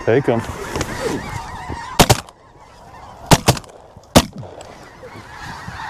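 Flock of blue-phase snow geese honking as they come in, then five shotgun shots from two hunters: a quick pair about two seconds in, another pair just after three seconds, and a last single shot about four seconds in.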